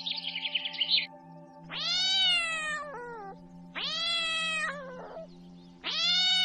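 A bird chirps rapidly for about a second, then a cat meows three times, each a long drawn-out call that rises and then falls away, over soft steady background music.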